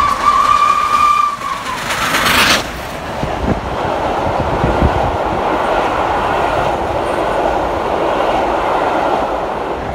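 Train sound effect: one single-note blast lasting about two seconds that sags in pitch at its end, then a brief burst of hiss, then steady rolling train noise with a low rumble and faint knocks.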